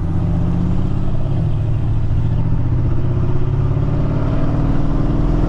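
Mercedes-AMG GLE 63 S twin-turbo V8 running under light throttle; its pitch drops once about a second and a half in, at a gear change, then rises slowly as the revs build.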